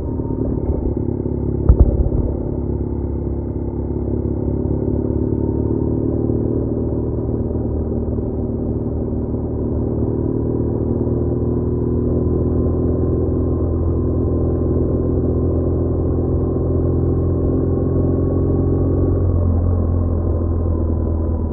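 BMW R1200R's boxer-twin engine running steadily under way, with road and wind rush. A single sharp knock comes about two seconds in, and the engine note changes shortly before the end.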